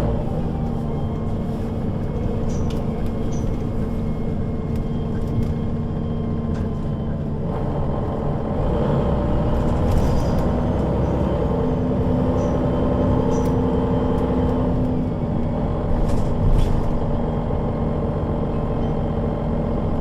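Solaris Urbino 12 III city bus with Voith automatic gearbox, engine running while under way. The steady drone picks up about seven seconds in, holds a higher note for a few seconds, then eases back, with occasional light clicks.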